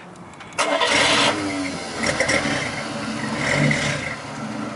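1953 Chevrolet Bel Air's inline-six engine starting: a brief burst of cranking about half a second in as it catches, then it settles into a steady idle. It runs very quietly through its muffler, with "no sound at all".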